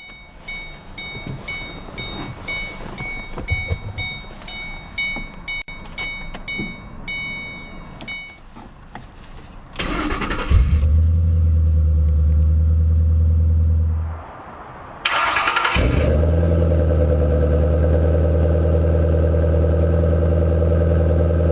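A car's warning chime pings about twice a second for the first eight seconds. Then the starter cranks and the 2008 Ford Mustang GT's 4.6-litre V8 catches about ten seconds in and idles loudly. It is shut off a few seconds later, then cranked and started again.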